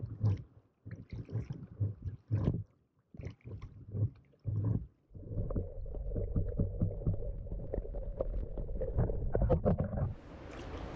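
Muffled sounds of a canoe on the water: uneven low rumbles and knocks broken by brief silent gaps. From about five seconds in there is a steadier low rush of moving water with small clicks and splashes, easing off near the end.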